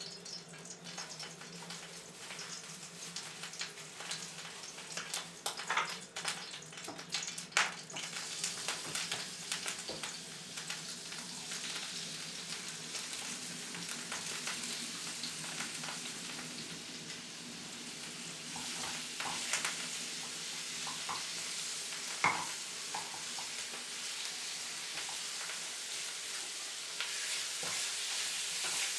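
Food sizzling in a frying pan, with scattered clicks and taps of a utensil against the pan. The sizzle grows slowly louder.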